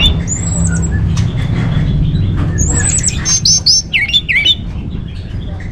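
Orange-headed thrush singing a varied song: high downslurred whistles, quick runs of repeated notes and swooping notes, over a steady low hum.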